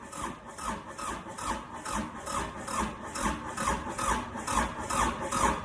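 Kubota tractor's diesel engine cranking on its starter, powered by a jump starter clipped to the starter terminal: an even chug of about three strokes a second, turning over without catching.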